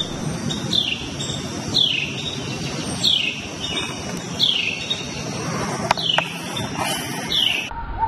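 A bird calling one short falling note over and over, six times, a little over a second apart. Two sharp clicks come near the six-second mark.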